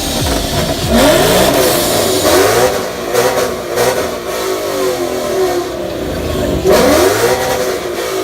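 Loud exhausts of V8 Ford Mustangs being revved again and again in a rev-off, engine pitch sweeping up and falling back. The strongest revs come about a second in and again near seven seconds.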